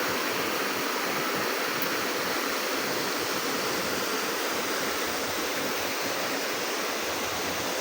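Waterfall water rushing steadily, an even hiss of falling and flowing water with no breaks.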